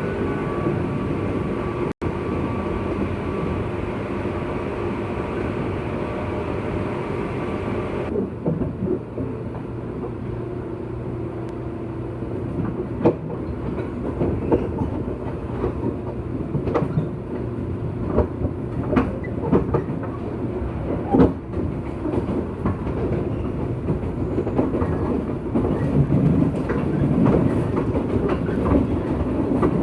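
JR West 201 series electric train running, heard from inside the passenger car. A steady hum with several tones stops about eight seconds in, and then come irregular clicks and knocks of the wheels over rail joints.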